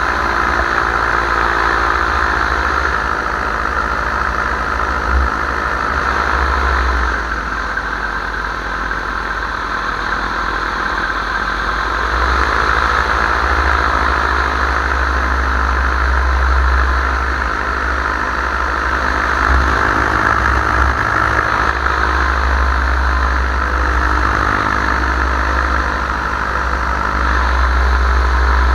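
Powered paraglider's engine and propeller running steadily in flight, over a heavy low rumble. The engine pitch drops about seven seconds in and climbs back a few seconds later.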